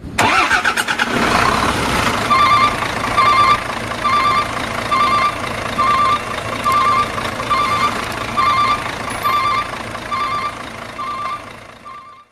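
Heavy truck engine running under load, with an electronic beeper sounding steadily about three times every two seconds from about two seconds in; the sound fades out near the end.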